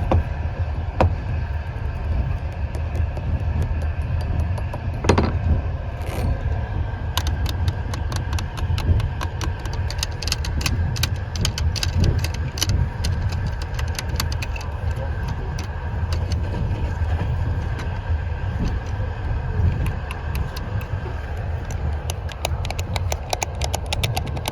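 Passenger train running, a steady low rumble heard inside the compartment, with a couple of single knocks in the first few seconds and then a fast run of small clicks and taps from about seven seconds in.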